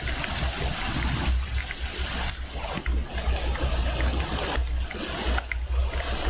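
Heavy thunderstorm rain pouring down: a steady hiss with scattered drips ticking and a low rumble underneath.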